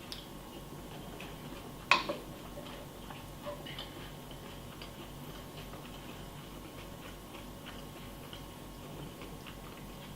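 A spoon clinks sharply against a cereal bowl once, about two seconds in, with a short ring, then a few faint clicks follow, over a steady faint electrical hum.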